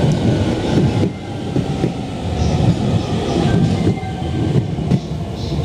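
Electric commuter train standing at the platform, its underfloor equipment giving a loud, steady low rumble.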